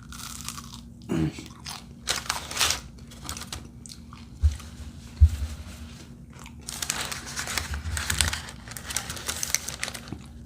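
Close-up biting and chewing of a crispy fried empanada, irregular crunching, with two brief dull knocks about halfway through.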